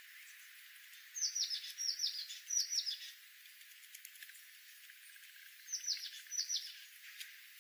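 Songbird chirping: short runs of quick, high, falling chirps, three runs in a row about a second in and two more near six seconds.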